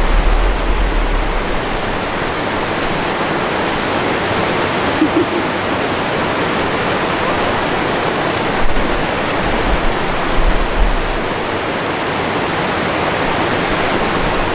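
Steady loud rush of fast-flowing mountain stream water, with a few brief low rumbles near the start and again a little past halfway.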